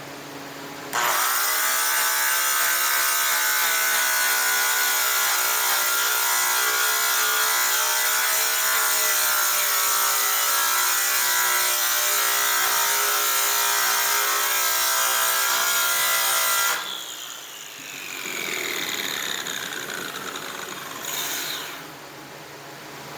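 Electric polishing tool buffing a metal exhaust pipe. It starts about a second in and runs at a steady pitch for about sixteen seconds, then is switched off and spins down with a falling whine.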